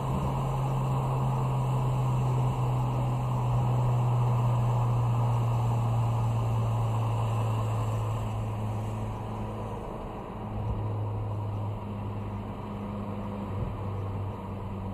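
A 2016 Ford Focus RS's turbocharged 2.3-litre four-cylinder engine heard from inside the cabin. It runs on light throttle, in vacuum rather than boost, with a steady drone near 4,000 rpm over tyre and road noise. About ten seconds in its note drops in pitch as the car slows for a corner.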